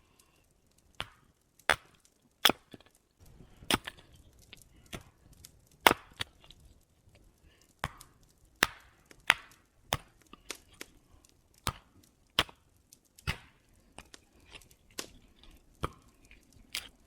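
Wood being chopped: a long series of sharp, irregular blows, roughly one every half second to a second, some much louder than others.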